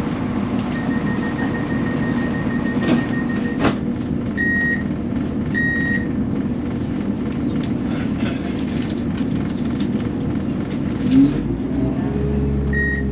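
Steady hum of a diesel train standing at the platform, with a held electronic tone and then short beeps like the door-closing warning. Near the end a deeper engine hum sets in as the engine comes up.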